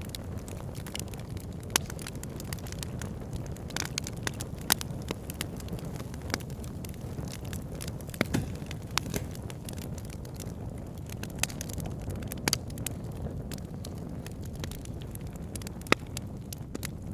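Fire burning in a fireplace: a steady low rush of flames with frequent sharp crackles and pops, a few noticeably louder snaps scattered throughout.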